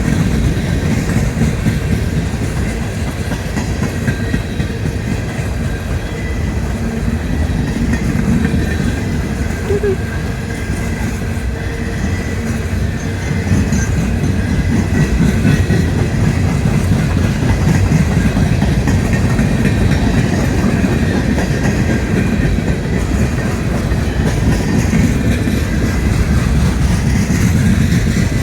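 Coal train's cars rolling past on the rails, a steady loud rumble.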